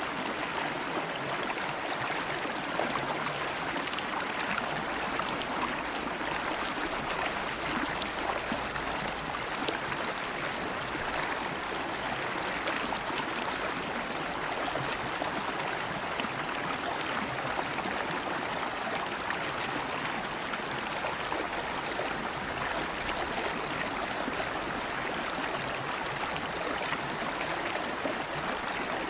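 River water flowing steadily over stones, a constant rushing and gurgling.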